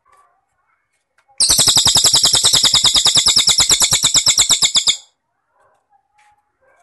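Cricket (jangkrik) song: a loud, steady, high-pitched pulsed trill of about ten pulses a second, starting about a second and a half in and stopping after about three and a half seconds.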